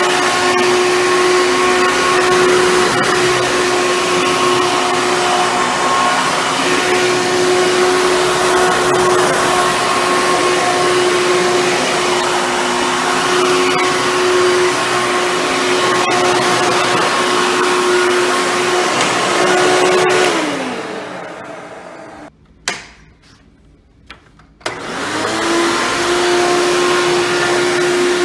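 Hoover Bagless Twin Chamber upright vacuum cleaner running steadily with a high motor whine. About twenty seconds in it is switched off and the motor winds down with falling pitch. After a couple of seconds of near quiet and a click, it starts again and spins back up to speed.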